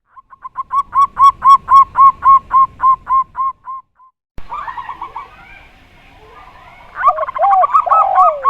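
Zebra dove (perkutut) cooing a rapid series of about a dozen short, evenly spaced notes that fade out near the end. After a break a second recording starts, and in its last seconds a derkuku dove's deeper, arched coos overlap quicker dove notes.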